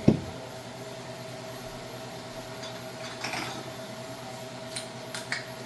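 A steady appliance hum, with a dull thump right at the start and a few light clinks of kitchenware about three and five seconds in.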